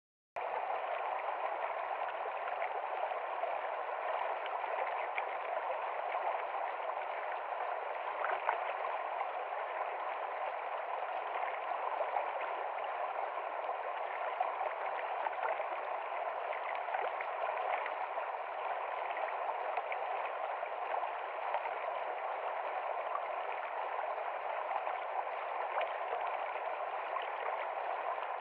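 Heavy rain falling on a window: a dense, steady hiss that starts suddenly out of silence right at the beginning.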